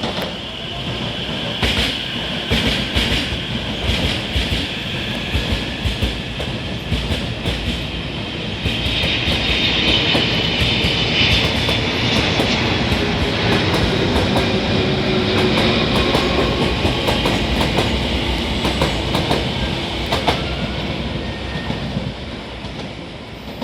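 Hankyu 9000 series electric train pulling away, its wheels clicking over the rail joints in quick succession. It grows louder about eight seconds in as the cars pass and fades near the end.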